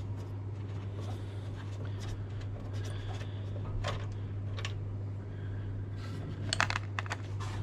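Hand tools working loose the bolts that hold a car radiator in place: a few sharp metallic clicks and scrapes, with a quick run of clicks near the end, over a steady low hum.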